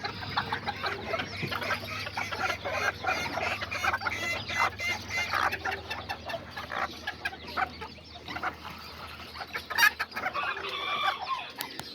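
Kikiriki bantam chickens clucking and calling over one another without a break, with a sharp click about ten seconds in.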